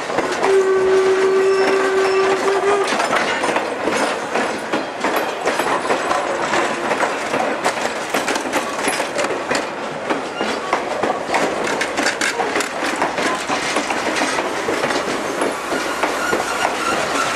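Passenger coaches rolling past close by, their wheels clicking over the rail joints with a continual rattle. A steady high tone sounds for about two seconds, starting about half a second in.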